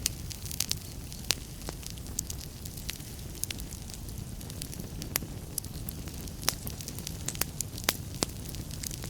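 Fireplace fire crackling: a steady low rumble of flame with irregular sharp pops and snaps scattered through, a few of them louder.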